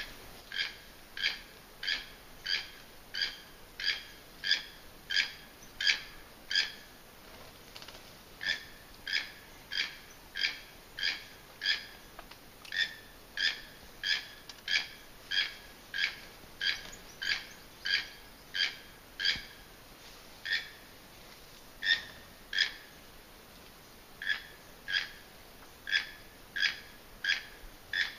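A bird in the tree canopy calling a long series of short, identical notes, about one and a half a second, broken by a few brief pauses.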